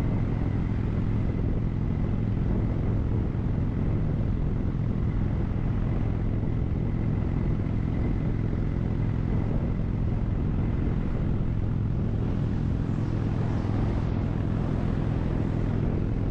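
2007 Victory Vegas V-twin motorcycle engine running at a steady cruising speed, its even drone holding one pitch with no rise or fall.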